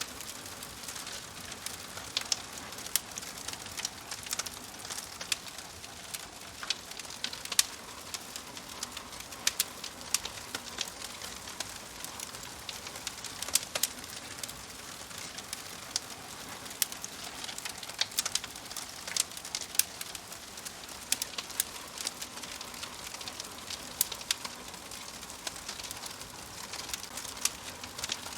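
Fire crackling: a steady soft hiss with frequent irregular sharp pops and snaps.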